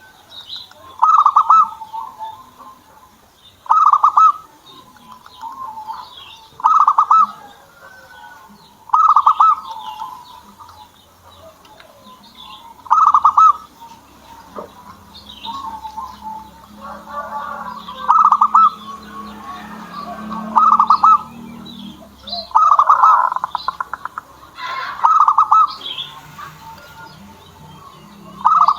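Zebra doves (perkutut) cooing: a run of short, rapidly stuttering coo phrases repeated every two to three seconds, with fainter high chirps of other small birds between them. A low hum runs under the calls through the middle stretch.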